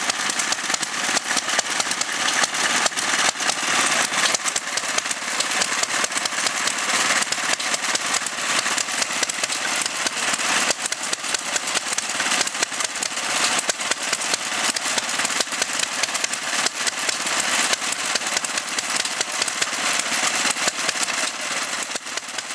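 Small Villiers stationary engine running steadily with a rapid, even firing clatter.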